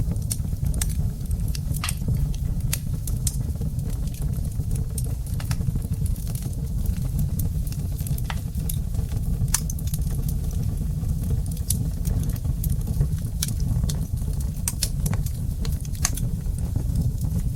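Wood fire burning in a fireplace: a steady low rumble with sharp crackles and pops scattered irregularly throughout.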